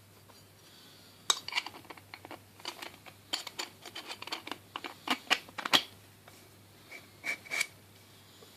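Hard objects being handled: an irregular run of sharp clicks and clatters for several seconds, then two more clicks near the end. The grinder's motor is not running.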